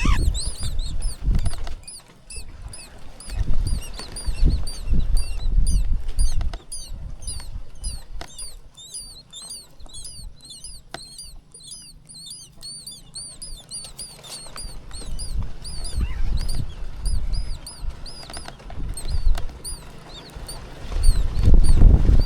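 Nestlings cheeping to beg for food: rapid, high-pitched short calls, several a second, with low rumbling bursts near the start and near the end that are louder than the cheeping.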